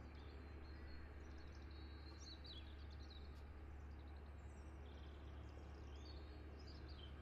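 Faint birds chirping intermittently over a low, steady outdoor rumble.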